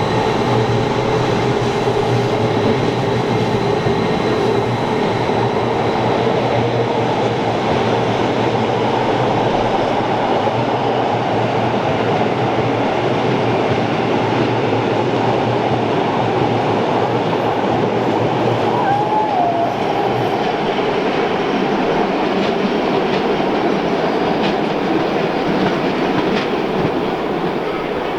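Rhaetian Railway train running on the rails: a loud, steady noise of wheels on track. A faint whine fades out in the first few seconds, and the low rumble drops away about two-thirds of the way through.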